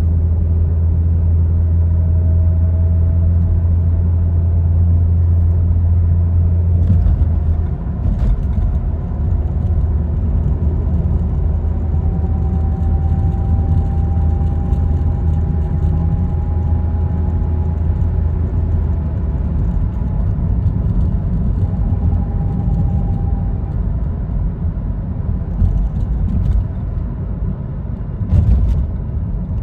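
A car running with a steady low hum that shifts about seven seconds in, while a faint whine slowly rises in pitch. A few short knocks sound near the middle and near the end.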